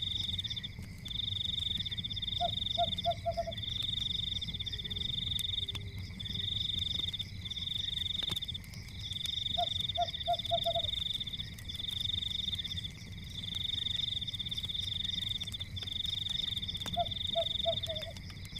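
Night chorus of frogs: a high pulsing trill in phrases of a second or two with short breaks, and a lower run of five quick croaks that recurs about every seven seconds. Beneath it run a low steady rumble and faint scattered crackles.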